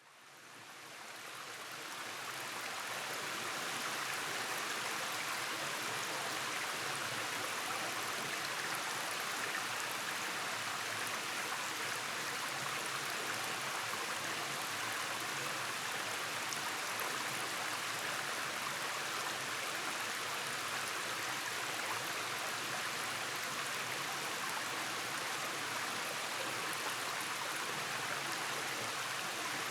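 Rainforest stream rushing over rock cascades, a steady hiss of flowing water that fades in over the first few seconds and then holds even.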